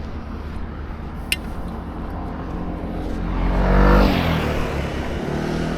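A car passing close by on the street, its engine building up to a peak about four seconds in and then falling away, with another vehicle's engine running after it. A short sharp click about a second in.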